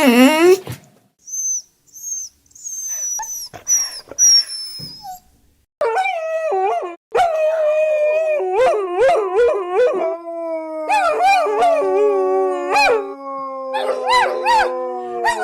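Dogs howling together: several overlapping voices, with long, slowly falling howls held for several seconds and shorter wavering howls and yips over them, starting about six seconds in. Before that come a few short high-pitched squeaks.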